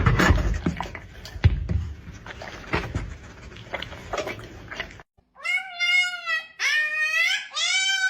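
Several thumps and knocks, then, after a short break about five seconds in, a cat meowing: three long, drawn-out meows whose pitch rises and falls.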